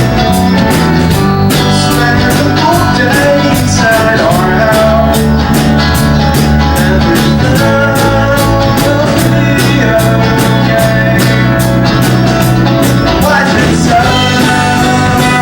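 Rock band playing live: electric guitar, bass and drums keeping a steady beat, with a singer's voice over them.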